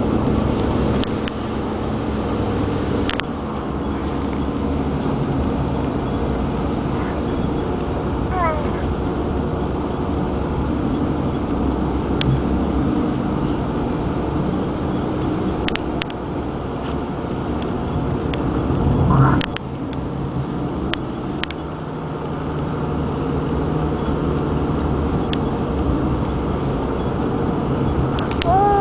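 A baby's occasional short, squeaky vocal sounds that glide in pitch, over a steady rumble and hiss, with a few sharp clicks.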